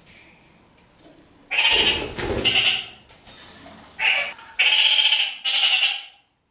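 Red-crowned kakariki (parakeets) calling: a run of about five loud calls with short gaps between them, starting about a second and a half in.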